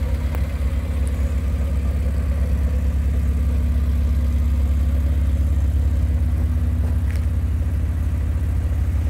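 Morris Minor 1000 van's A-series four-cylinder engine idling steadily.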